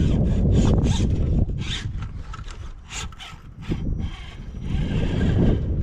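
Off-road rock crawler working over rocks: a low engine rumble with wind on the microphone, which eases about a second and a half in, leaving a run of short scraping and crunching strokes.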